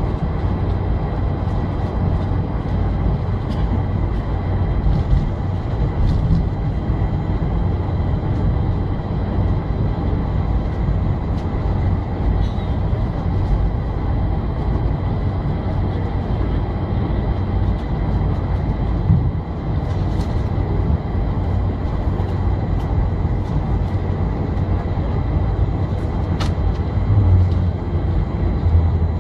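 Boeing 747 jet engines running steadily, heard inside the passenger cabin as a loud even drone with a few faint thin whine tones over it. There are a few small rattles, notably around two-thirds of the way through.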